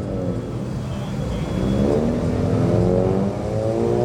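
A car engine pulling away, its pitch dipping briefly and then rising steadily through the second half, over the steady low hum of other engines idling.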